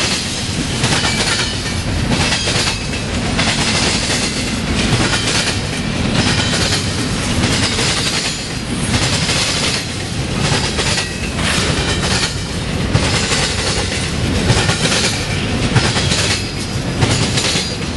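Freight train of empty double-stack intermodal well cars rolling past, its steel wheels clacking over the rail joints again and again with a constant rumble of wheels on rail.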